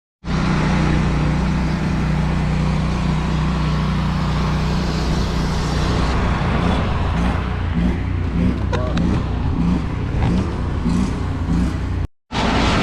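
Truck engine idling steadily, with a short break to silence near the end.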